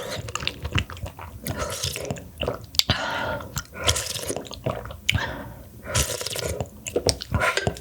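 Close-miked wet eating sounds from a meal of mussel soup and mussel porridge: chewing, smacking and squelching, with many small clicks.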